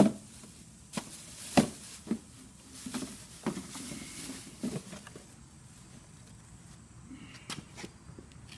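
Scattered knocks and clatters, loudest about one and a half seconds in, thinning out after about five seconds apart from two sharp clicks near the end.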